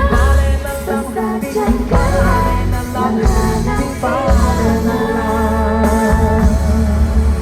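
Live pop song played over a loud outdoor PA: a singer's voice carrying the melody over a heavy bass beat.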